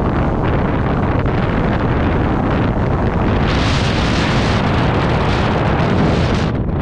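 Heavy wind buffeting on a GoPro camera's microphone: a loud, rumbling roar of wind noise. About three and a half seconds in it turns brighter and more hissing, and it dips briefly just before the end.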